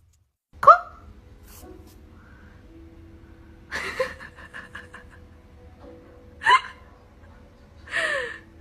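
Four short hiccup-like squeaks, each a quick falling pitch, spaced a couple of seconds apart.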